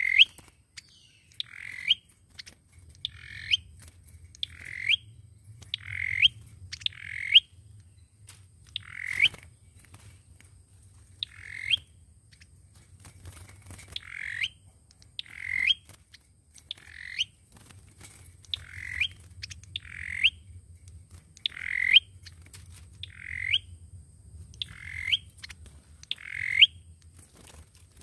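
Sâu dừa songbird calling over and over, about twenty short notes that each sweep upward, spaced roughly a second to a second and a half apart: a lure call used for trapping. A faint low hum runs underneath.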